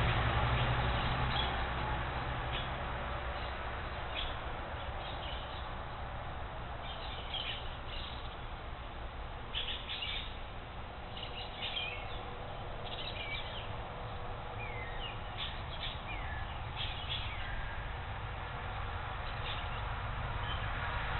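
Wild birds calling: scattered short chirps and a few quick falling whistles, busiest from about seven to seventeen seconds in, over a steady background hiss and low rumble.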